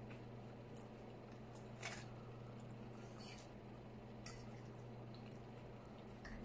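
Close-miked chewing and wet mouth sounds of someone eating chili cheese fries, with a few short clicks, the loudest about two seconds in, over a steady low hum.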